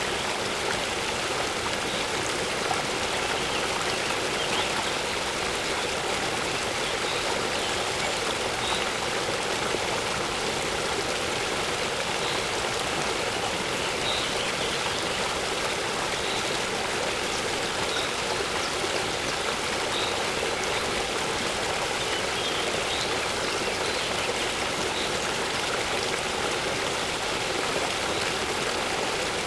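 Waterfall rushing steadily into water, with a bird's faint short high chirp recurring every couple of seconds.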